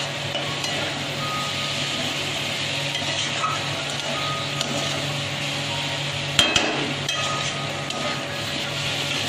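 Moong dal and spice paste sizzling as they fry in an aluminium kadai, stirred with a metal spatula that scrapes the pan, with one sharp knock of the spatula on the pan about six seconds in.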